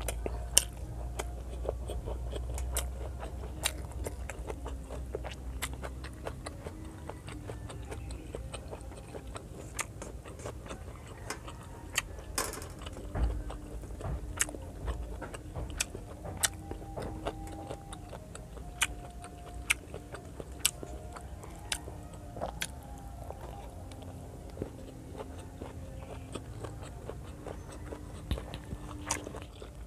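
Close-miked chewing and biting of pork belly adobo and rice eaten by hand, with frequent sharp mouth clicks and smacks at irregular intervals.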